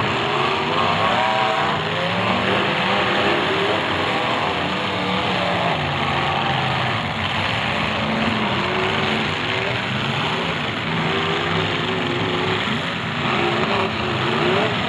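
Several full-size demolition derby cars' engines running and revving at once on the dirt track, pitches rising and falling over a steady loud din.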